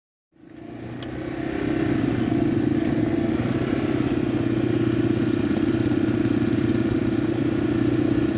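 Small single-cylinder dual-sport motorcycle engine running steadily at cruising speed on a gravel road, with tyres rolling over the gravel. It fades in over the first second or two.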